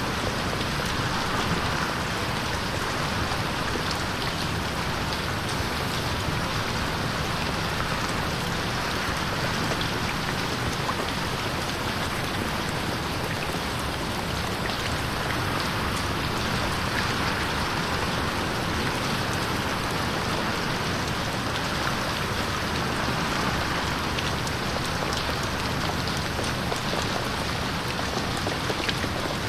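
Steady rain pattering on a window pane, an even hiss of rain with small drop ticks scattered through it.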